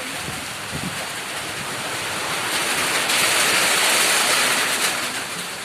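Heavy rain in strong wind: a steady rush of noise that swells louder about three seconds in and eases off again near the end.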